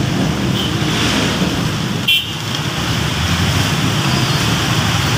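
Heavy rain and busy road traffic, a loud steady wash of noise, with a brief high toot about two seconds in.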